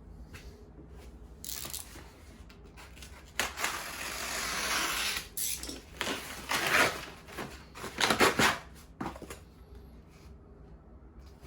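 Handling noises in a small room: a couple of seconds of steady rustling and scraping, then several short rustling, tearing bursts.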